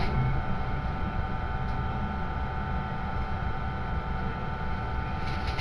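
Electric train at the platform: a steady low rumble with a steady whine of several high tones.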